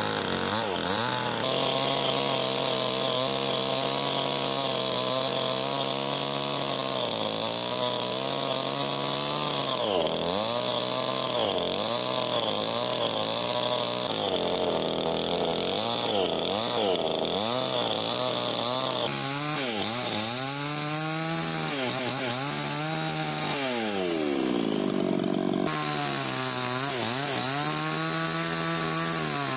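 A small engine running continuously, its pitch dipping and rising again and again as its speed changes, with sudden shifts in the sound about 19 and 26 seconds in.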